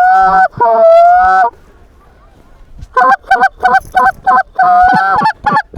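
Goose calls blown close by, imitating Canada geese: two drawn-out honks, a pause of about a second and a half, then a fast run of short clucks with one longer honk among them.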